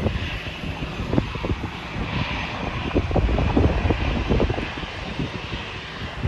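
Airliner engine noise from a plane in the distance, swelling about two seconds in and easing off toward the end, under gusty wind buffeting the microphone.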